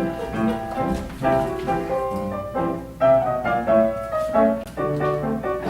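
Piano playing an instrumental passage of struck chords and single melody notes in quick succession, each note ringing and dying away.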